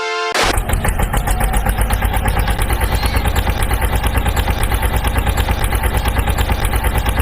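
A heavy truck engine starts abruptly and runs steadily with a fast even chugging of about ten pulses a second.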